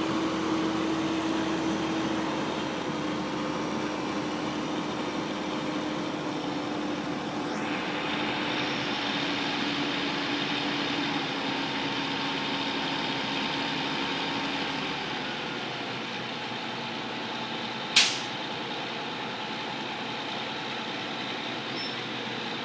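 Steady mechanical running noise with a low hum that fades partway through, and one sharp click or knock near the end.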